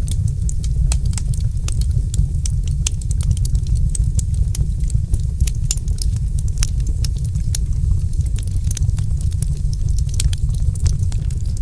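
Wood fire in a fireplace crackling: many small, irregular pops and snaps over a steady low rumble of the flames.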